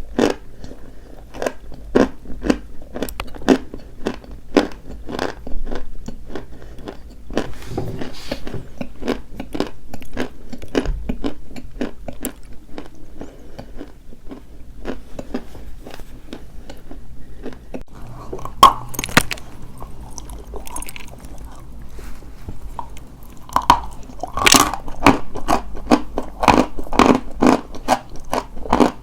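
Dry white chalk being bitten and chewed close to the microphone: a steady run of crisp crunches, about two a second. A few sharper, louder bites come in the last third.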